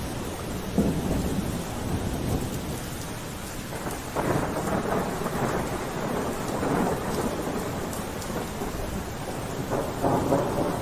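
Steady rain falling, with rumbles of thunder swelling up about a second in, around four seconds in and again near the end.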